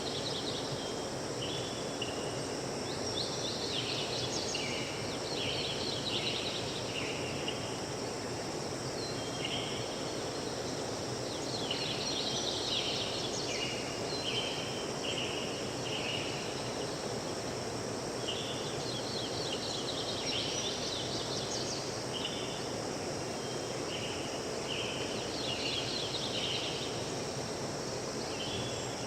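Birds chirping in recurring bursts of quick, high notes every few seconds, over a steady rushing background of outdoor noise.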